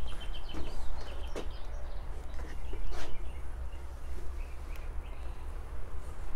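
Birds chirping outdoors, with a short trill at the start and scattered chirps after it, over a steady low rumble. A few sharp knocks, the loudest about three seconds in.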